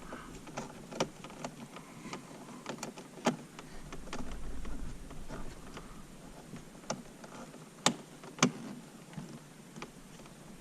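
Scattered sharp clicks and light taps of tools, screws and plastic interior trim being handled, coming irregularly, with a louder one about a third of the way in and two louder ones close together near the end.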